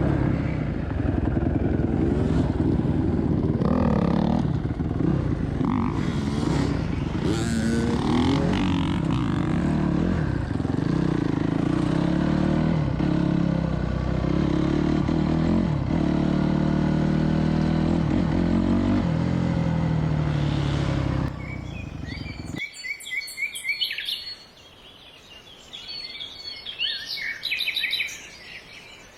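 Yamaha YZ125 two-stroke dirt bike engine running steadily, stopping abruptly about three-quarters of the way through. Birds chirp after it stops.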